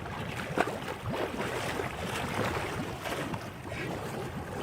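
Floodwater sloshing and splashing in irregular small splashes, with wind noise on the microphone.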